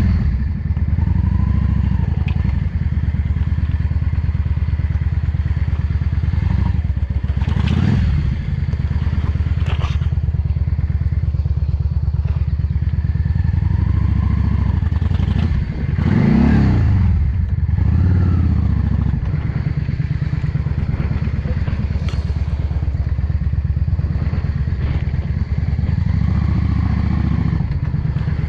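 Yamaha XVS 650 Drag Star Classic's air-cooled V-twin engine running at low speed, with two brief revs about eight and sixteen seconds in as the bike creeps along. A few sharp clicks sound over it.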